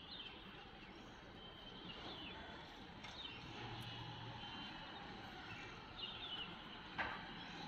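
Faint outdoor ambience with birds chirping now and then in short falling chirps, and one sharp click about seven seconds in.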